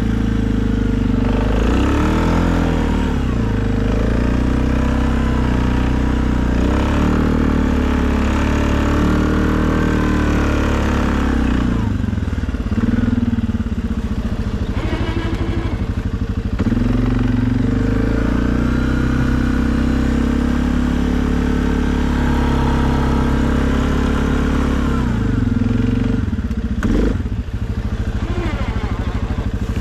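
2020 Suzuki KingQuad ATV engine running under plowing load, its pitch rising and falling again and again with the throttle. A brief clatter comes near the end.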